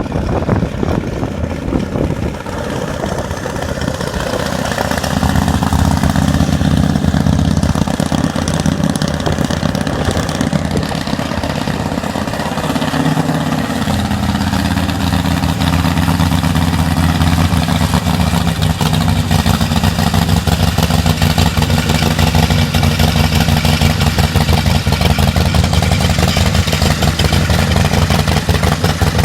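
Custom softail motorcycle's Ultima 127 cubic-inch V-twin engine running at idle, getting louder over the first few seconds and then holding steady.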